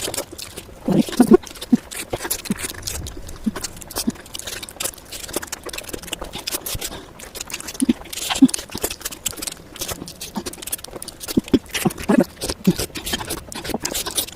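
Close-miked chewing and mouth sounds of a person eating fish curry with rice: a steady, irregular run of wet clicks and smacks, with a few short low sounds in between.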